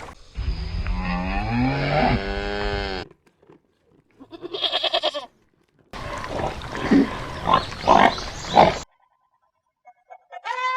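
Farm animal calls in quick succession, each cut off abruptly: a long pitched call that rises and then falls, a short high call, a stretch of grunting, and a brief call near the end.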